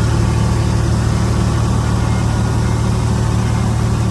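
Diesel engine of earthmoving machinery running steadily at low revs, a constant low drone with no change in pitch.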